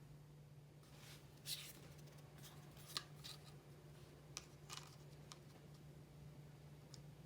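Faint hand work on a small model car's parts: about eight short, sharp clicks and snips, scattered over a steady low hum.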